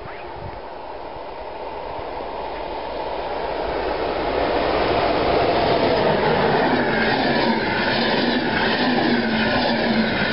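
Electric passenger train, a locomotive hauling coaches, passing close at speed. The noise swells as it approaches and is loudest from about halfway through. Then the wheels clatter rhythmically over the rail joints as the coaches go by, with a steady hum.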